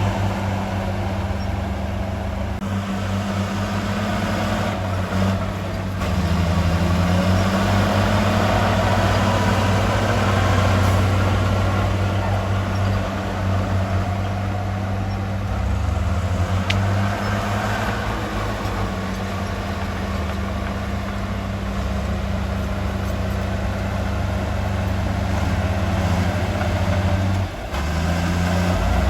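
Heavy diesel engine of earthmoving machinery running, with a steady low hum whose pitch dips and rises a few times. It gets louder about six seconds in and drops briefly near the end.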